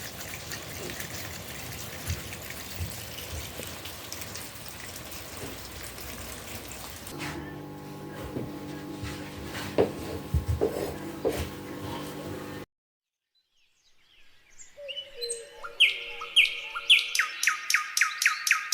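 Steady rain hiss with scattered drips and ticks, then a steady hum with a few knocks. After a short break, background music begins, with stepped notes and rattling percussion.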